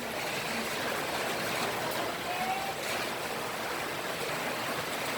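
Steady rushing of water, an even hiss with no pauses, with a few faint short high tones over it.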